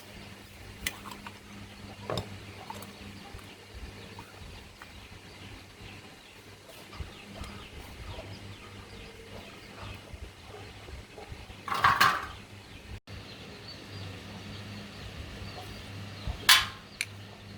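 Scattered knocks and clinks of metal tools and parts during workshop work, over a low steady hum. The loudest knocks come as a cluster about twelve seconds in and as two sharp hits near the end.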